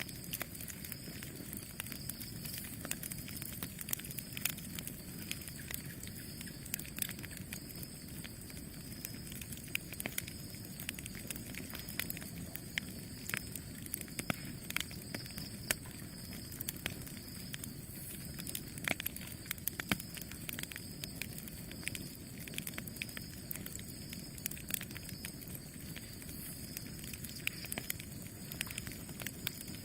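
Campfire burning: a steady low rumble of flames with frequent irregular crackles and sharp pops from the burning wood.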